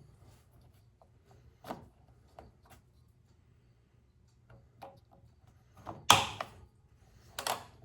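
Handling noises from working on a snowblower's controls: scattered light clicks and knocks, with a louder short scrape or clatter about six seconds in and another near the end. The engine is not running.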